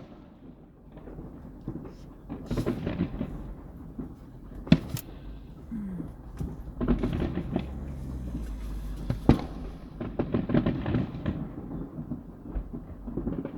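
Fireworks going off in the distance: two sharp bangs about four and a half seconds apart, with smaller cracks and low rumbling booms between them.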